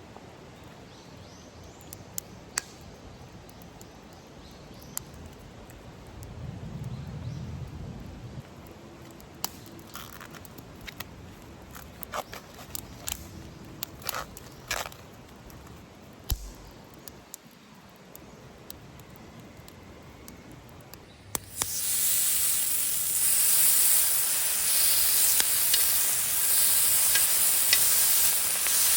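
Food frying in a hot pan: a loud, steady sizzle starts suddenly about three quarters of the way in, after a quiet stretch of light clicks and knocks.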